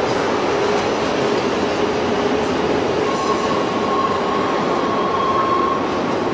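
Canadian Pacific train rolling past close by, a steady rush of wheel and car noise with a thin squeal from the wheels. A second, higher squeal joins about three seconds in and fades out near the end.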